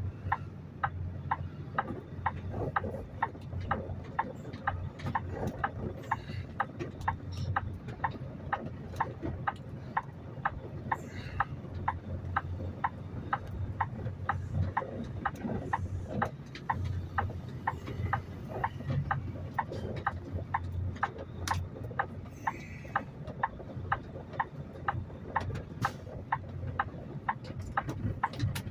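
Indicator flasher relay clicking steadily, about two clicks a second, over the low idle of the semi truck's diesel engine. The truck is parked across the road with its flashers going.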